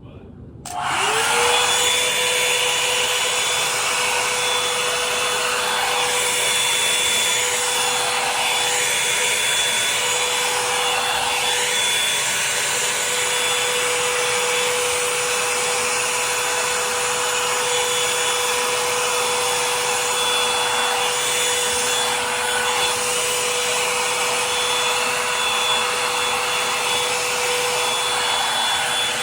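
Revlon hair dryer brush switching on about a second in and then running steadily and loudly, its motor humming under the rush of hot air as it is worked through wet hair.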